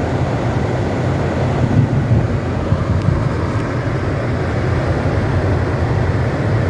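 Steady low rumble of road and engine noise inside a moving car's cabin, with the air-conditioning fan blowing on the windscreen to demist it.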